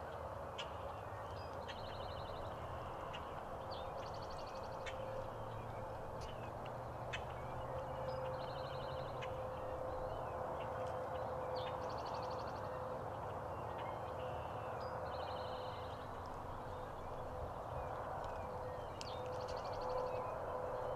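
Birds calling across an open field: short, high, rapidly pulsed trills every few seconds over a steady outdoor hiss.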